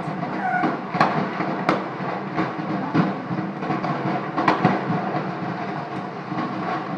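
Steady rumble of a large gas-station fire, with sharp cracks and pops every second or so, loudest near the middle.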